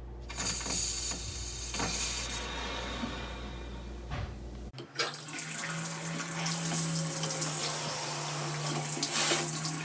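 Water running hard from a plumbing fixture, an even hiss that briefly drops out about halfway through and then resumes.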